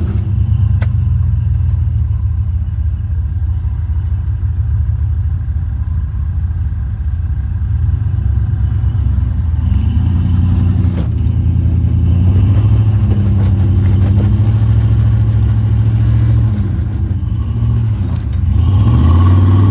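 Off-road truck engine running under load on a trail climb: a steady low rumble at first, then revved up and eased off several times from about halfway through, with another rev near the end.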